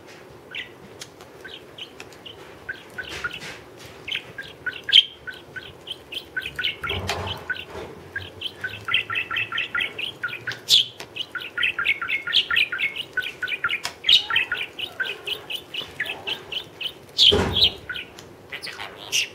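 Small pet parrot making its 'beatbox' sounds: long runs of short clicks and chirps, about five or six a second at their fastest, broken twice by a louder, harsher call.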